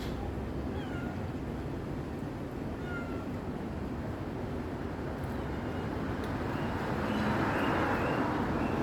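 Stray cats meowing a few times, faint and short, over a steady background rumble that grows louder near the end.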